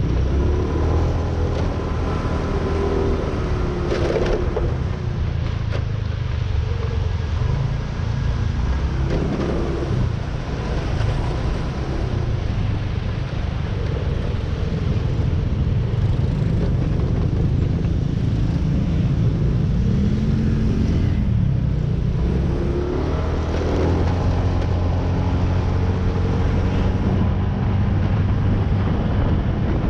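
Motorcycle engine running through city traffic, a steady low rumble with the engine pitch rising and falling briefly a few times.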